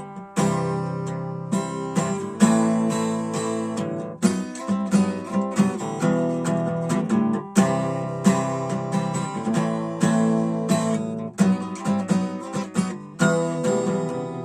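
Acoustic guitar strumming chords without singing, in E minor, each stroke ringing out and fading before the next.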